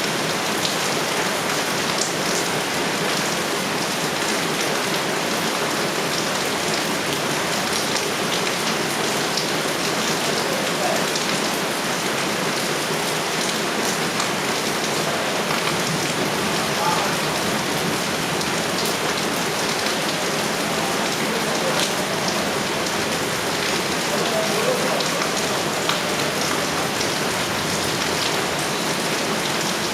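Heavy rain falling steadily, with scattered sharper ticks of drops striking close by.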